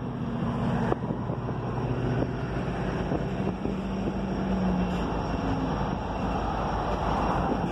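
Freight cars rolling along the track below, a covered hopper and then a tank car going by, with a steady rumble of wheels on rail.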